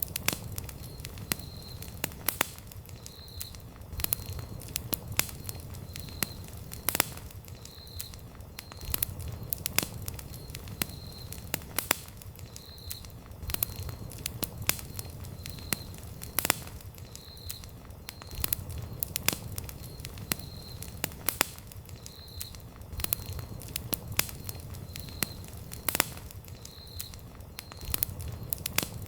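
Wood campfire burning, with sharp, irregular crackles and pops over a steady low rumble of flame. A faint, short high chirp recurs about once a second underneath.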